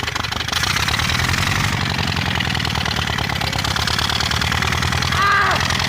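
Homemade wood-fired steam engine running steadily with a fast, even beat. A few short arching high-pitched tones sound near the end.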